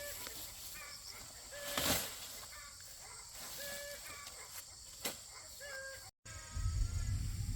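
Chickens clucking: short, level calls repeating about every two seconds, with a brief rustle about two seconds in. A low rumble follows a sudden cut near the end.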